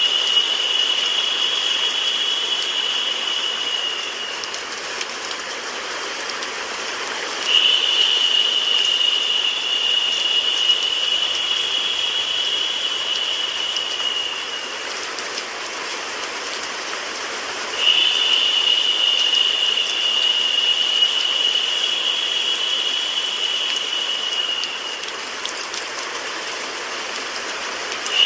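Steady rain sound layered with white noise. A high, narrow hiss swells in for about seven seconds, drops away for about three, and comes back again in a repeating cycle.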